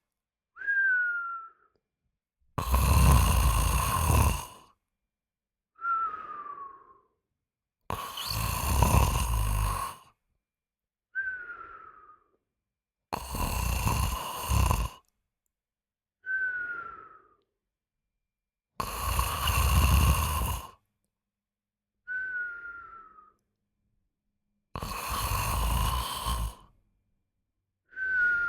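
A person snoring in a slow, regular rhythm, one breath cycle about every five and a half seconds. Each long snore lasts about two seconds and is followed by a shorter, quieter breath with a thin whistle that falls in pitch.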